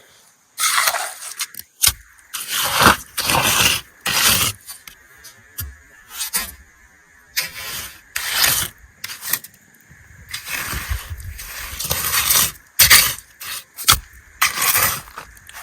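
Repeated scraping strokes of a hand tool, irregular and about one a second.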